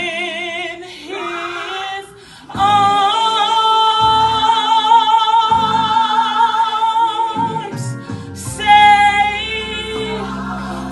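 Gospel song: a solo voice sings high with heavy vibrato, holding one long note for about five seconds in the middle, over steady low accompaniment.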